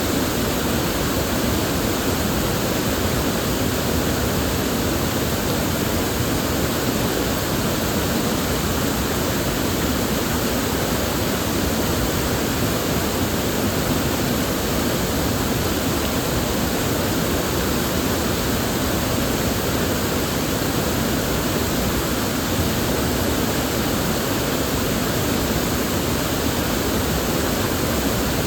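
River water flowing steadily, a constant even rush.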